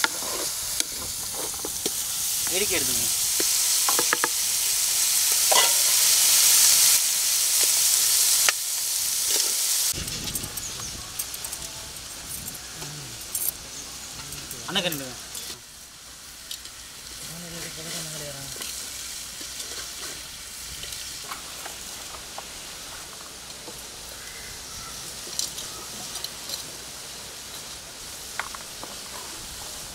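Crab pieces and masala frying in coconut oil in an iron kadai, sizzling loudly and being stirred. About ten seconds in, the sizzle drops suddenly to a softer, steady frying hiss.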